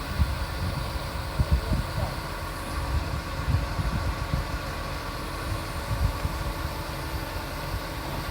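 Wind buffeting the microphone in irregular low gusts, over a steady mechanical hum.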